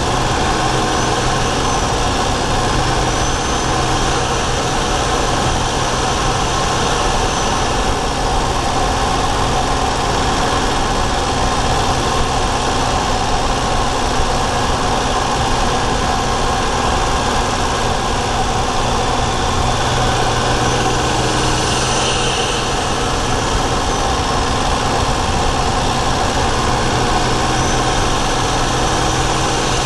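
Daihatsu Charade GTti's three-cylinder turbocharged engine running steadily, heard from a microphone in the engine bay. A faint high whistle rises and falls a few times, most clearly about two-thirds of the way through.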